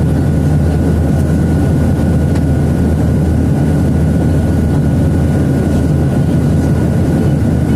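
Airliner cabin noise in flight: a steady, loud rumble of engines and airflow with a faint steady whine above it.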